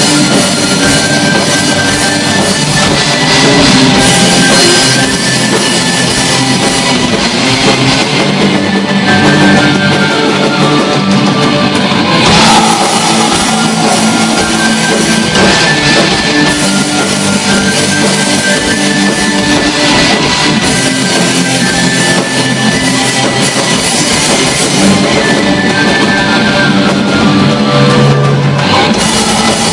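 Live black metal band performance: distorted electric guitars and a drum kit playing loud, dense music without a break.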